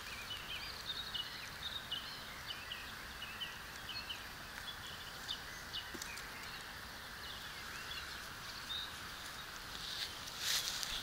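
A small bird chirping in short quick notes over a steady outdoor hiss, then footsteps rustling through dry grass near the end.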